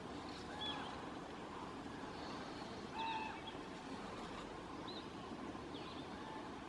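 Short bird calls from the wetland, scattered a few seconds apart, each a brief curved note. The clearest come just under a second in and about three seconds in, over a steady faint outdoor hiss.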